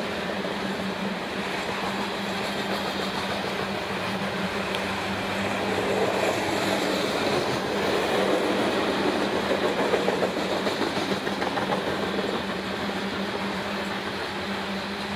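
Coal hopper cars of a freight train rolling past, a steady rumble and clatter of wheels on rail that swells in the middle and eases off near the end.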